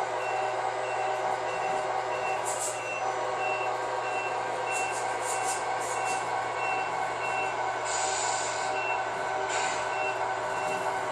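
Sound unit of a Tamiya Scania R620 RC truck playing a reversing beeper, a short high beep about twice a second, over its steady simulated diesel engine sound, as the truck backs up. A few short hisses come in, one about a quarter of the way in and two near the end.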